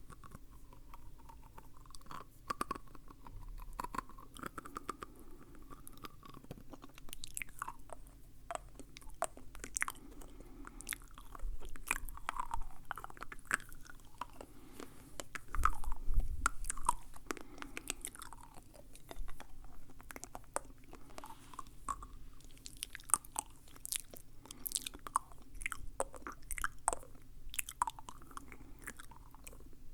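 Close-miked ASMR mouth sounds: irregular wet clicks, smacks and chewing-like noises from lips and tongue, with a louder cluster about halfway through.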